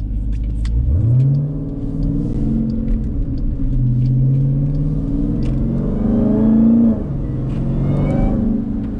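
Supercharged 6.2-litre Hemi V8 of a Jeep Grand Cherokee Trackhawk accelerating. Its note rises about a second in, then climbs again and drops off sharply near seven seconds as the throttle comes off.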